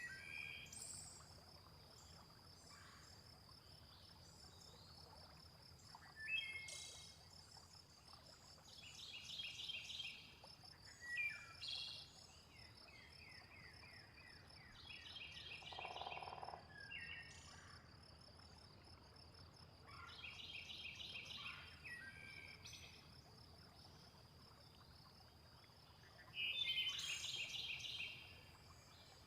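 Faint nature soundscape: a steady, high insect trill under birds calling in short runs of rapid chirps every few seconds, the loudest run near the end. About halfway through comes a single lower call, a frog croaking.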